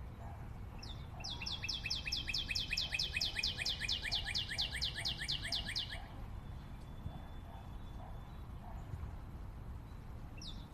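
Bird-like chirping in a rapid trill of high, falling chirps, about six a second. It starts about a second in and stops about six seconds in, leaving a quieter stretch.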